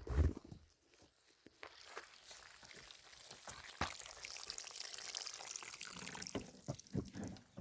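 A thump, then water pouring steadily from about two seconds in, with a few light clicks.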